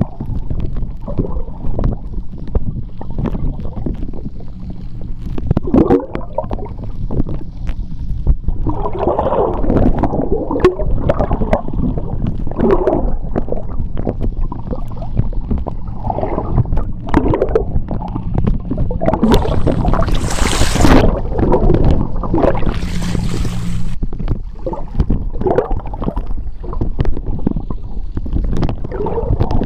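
Sea water heard underwater: a low rumbling wash with frequent clicks and gurgling bubbles, and two hissing rushes of bubbles about 20 and 23 seconds in. A faint low steady hum runs underneath and stops about 24 seconds in.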